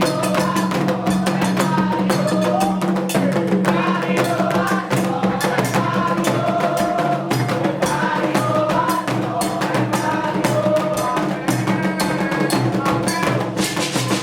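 Candomblé atabaque drumming in a fast, steady rhythm, with a group singing a song for Xangô over it.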